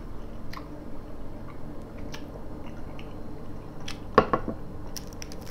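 Close-up chewing and small mouth sounds, with a brief knock from a glass mug of tea being handled about four seconds in, then a candy wrapper starting to crinkle near the end.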